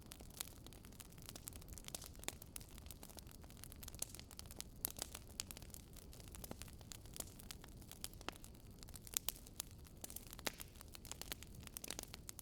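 Wood fire crackling and popping: irregular sharp snaps of burning logs over a low, steady rumble of flame.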